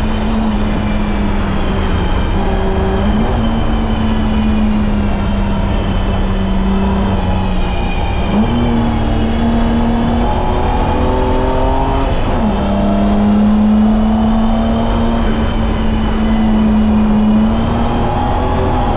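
BMW E30's M20B25 inline-six engine running hard on track, one steady engine note whose pitch drifts slowly and jumps several times as gears change, with a sudden drop about twelve seconds in.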